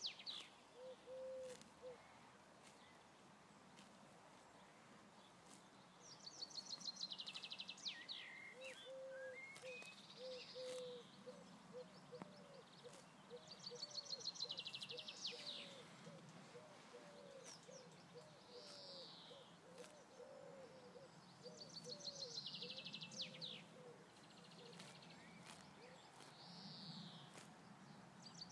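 A songbird singing, a fast trilled phrase that falls in pitch over about two seconds and repeats roughly every eight seconds, over faint outdoor background. A quieter, lower series of short repeated notes runs through the middle.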